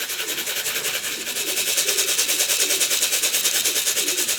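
A tin of pigeon feed shaken in a fast, even rattle. It is the feeding signal that calls young pigeons back into the loft.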